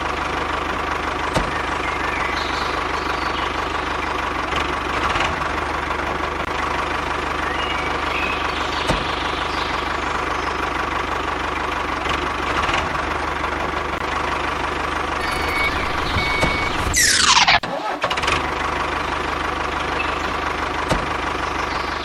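A small motor running steadily with an even mechanical drone. About 17 seconds in, a brief, loud, sharply falling whoosh cuts across it.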